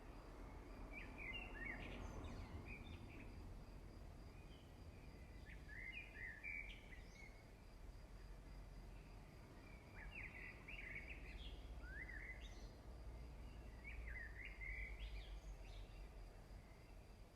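Faint bird song: short chirping phrases repeated every few seconds over a low, steady background noise.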